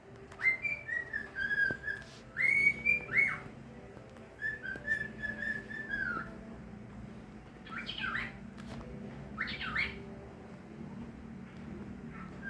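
Pet bird whistling its song: three long, clear whistled phrases in the first six seconds, then two short bursts of quick rising-and-falling chirps around eight and ten seconds in.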